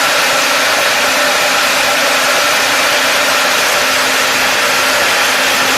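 A machine running steadily: an even rushing noise with a faint low hum, unchanging throughout.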